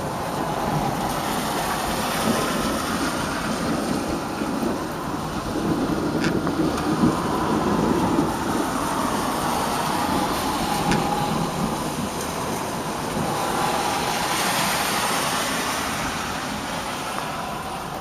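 Steady rain falling during a thunderstorm, with a louder low sound that swells up and fades away twice over several seconds.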